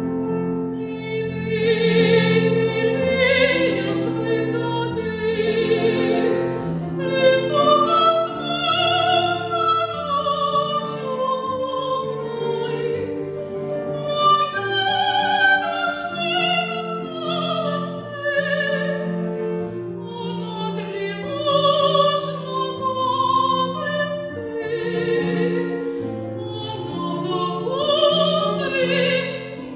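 A woman singing a Russian art song in trained classical style, with wide vibrato, over piano accompaniment.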